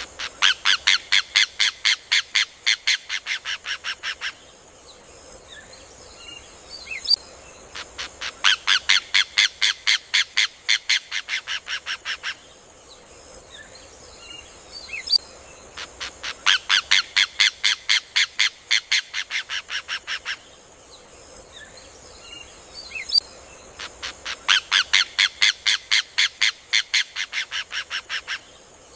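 Rufous hornero (João de Barro) singing: four bursts of rapid, loud, shrill notes at about five a second, each burst slowing and fading over about four seconds and led by a single sharp note, repeating every eight seconds.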